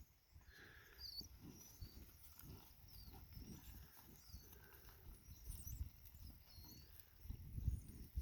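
Faint, scattered chirps of small black birds feeding on the ground, over soft low thumps that grow a little louder near the end.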